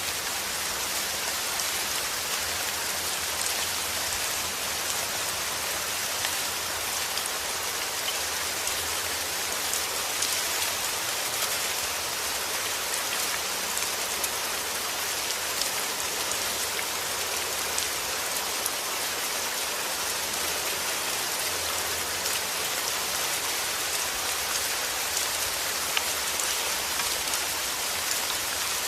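Heavy rain falling steadily: an even hiss with many small, sharp drop ticks scattered through it.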